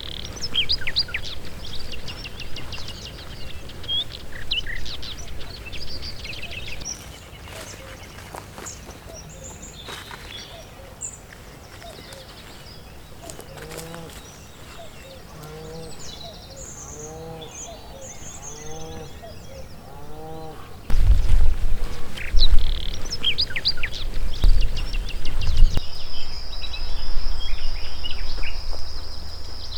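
Small birds chirping and singing, then a run of about eight repeated lower calls in the middle. Two-thirds of the way through, a loud low rumble comes in suddenly, and near the end a steady high insect trill starts.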